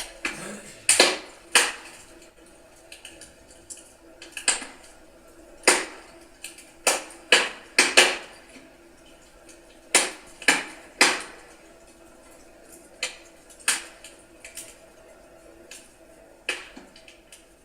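Wood fire crackling in a fireplace: irregular sharp pops and snaps from the burning logs, some louder than others, over a faint steady hiss of the flames.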